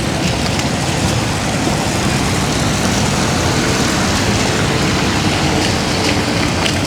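Steady outdoor city ambience with a constant low rumble of traffic and a wash of rain.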